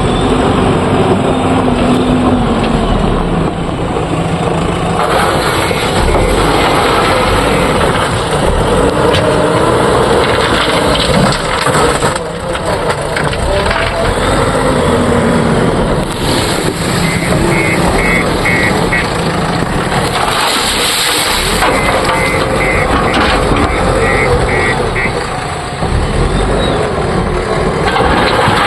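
Heavy diesel engine of a JCB 3DX backhoe loader working while loading a dump truck, its pitch rising and falling as it revs under load.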